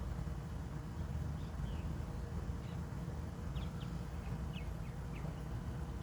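A few faint, short bird chirps in the middle, over a steady low rumble.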